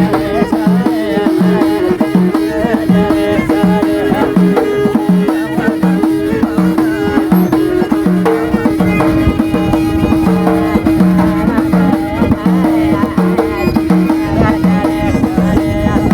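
Moroccan folk music on the kamanja (violin) and bendir (frame drum): a bowed melody over a steady drone, with an even drum beat.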